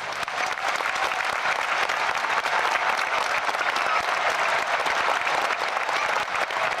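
Large stadium crowd applauding: steady, dense clapping.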